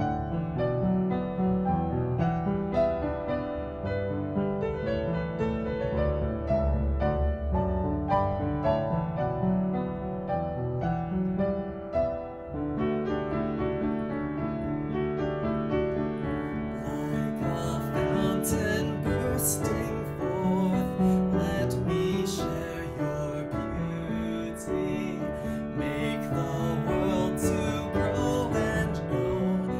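Slow, gentle piano music with sustained chords. The music shifts about twelve seconds in, and from about seventeen seconds bright, crisp strokes join the piano.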